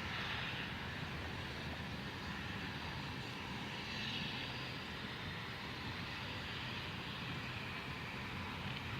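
Steady rumble and hiss of a steam-hauled train running, with no clear beat.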